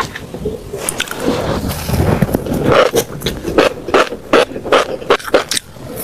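Close-miked mouth chewing crunchy seeds. Soft chewing at first, then sharp crisp crunches about three times a second from about halfway in.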